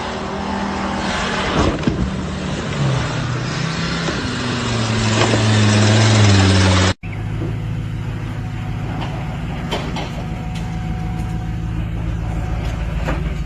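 Off-road truck engine revving hard under load, its pitch climbing, over a loud rush of noise; it cuts off abruptly about seven seconds in to another truck engine running at a steady drone with a few sharp knocks.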